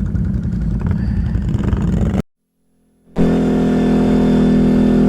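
ATV engine running under way, rough and uneven for about two seconds, then breaking off into about a second of silence. It comes back as a steady, even engine drone.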